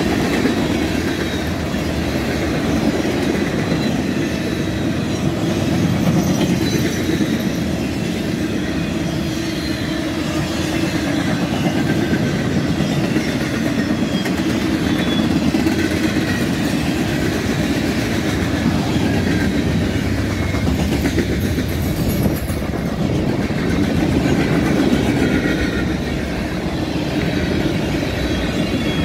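A freight train's cars rolling past close by: tank cars, flatcars, hoppers and boxcars on steel wheels, with a steady clattering of wheels over the rails.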